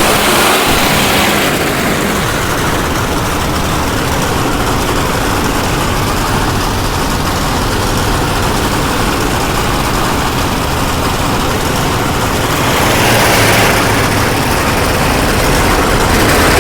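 Monster truck engine running steadily, swelling louder near the start and again about thirteen seconds in.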